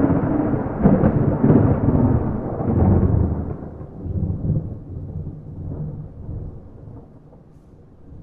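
Thunder rolling: a loud low rumble with several cracks in the first three seconds, then dying away into a fading grumble.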